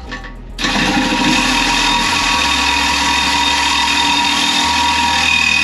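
Power saw with a metal-cutting blade running steadily, cutting through a rusted toilet tank bolt. It starts about half a second in and runs on as one steady whine.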